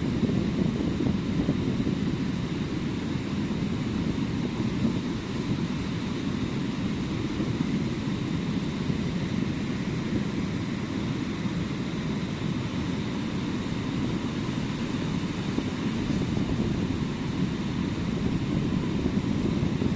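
Ocean surf on a beach: a steady low rumble of waves with no distinct breaks.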